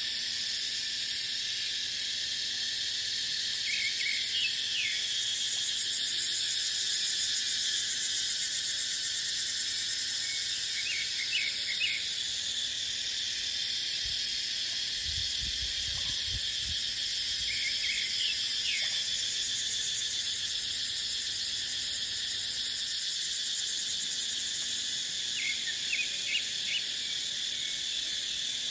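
Cicadas buzzing in a dense, steady chorus that swells louder for a few seconds and settles again. Short groups of high chirps recur every several seconds, and a brief low rumble of wind on the microphone comes about halfway through.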